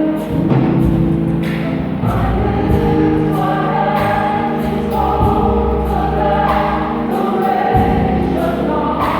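Gospel choir singing held notes over instrumental backing with a steady bass.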